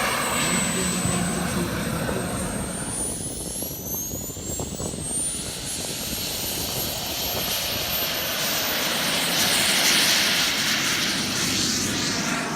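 Small gas-turbine engine of a large radio-controlled model jet flying past. A thin high whine climbs in pitch a few seconds in, and the jet's rushing noise swells to its loudest near the end.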